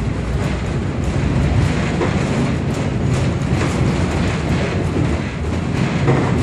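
Heritage railroad passenger car rolling along the track, heard from inside the coach: a steady low rumble with scattered clicks of wheels on the rails.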